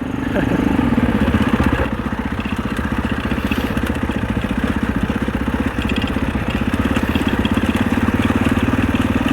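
Husaberg 650 four-stroke single-cylinder dirt bike engine running under throttle, picking up right at the start and then holding a steady, even firing rhythm.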